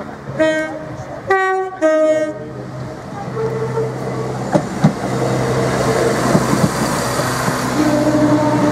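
A Class 171 Turbostar diesel multiple unit sounds its two-tone horn in three short blasts, low, high, low. It then runs toward and over the level crossing: engine and wheel rumble grow louder, with a couple of sharp clicks over rail joints about five seconds in.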